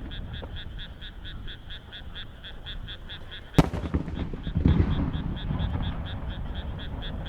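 A single firework shell bursts with a sharp bang about three and a half seconds in, followed by a low rolling rumble. Throughout, a frog calls in quick, regular pulses, about four or five a second.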